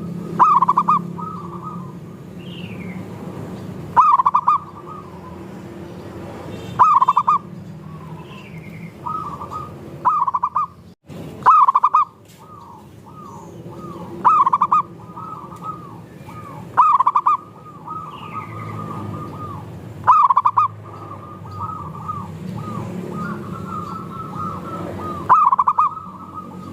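Several zebra doves (perkutut) cooing together, their rolling coo phrases overlapping. A loud phrase comes about every three seconds over softer ones, with a few short, falling high notes now and then.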